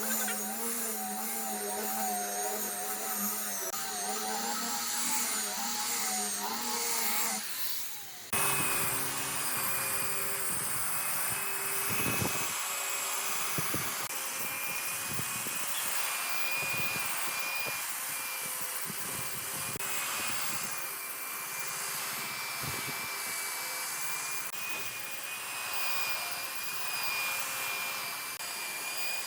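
Woodworking power tools running. One machine's pitch wavers up and down, then after a sudden cut about eight seconds in, another machine runs with a steady high whine and scattered knocks.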